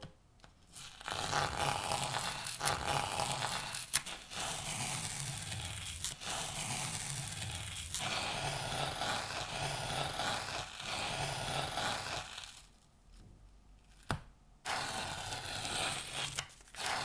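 Tape being peeled off the edges of a painted canvas: a long tearing sound in several pulls, then a pause of about two seconds before one last pull near the end.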